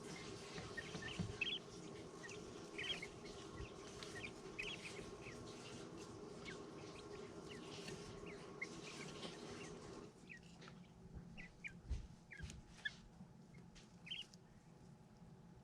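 Young brooder birds peeping: short, high chirps repeated throughout. Under them runs a steady hum that cuts off about ten seconds in.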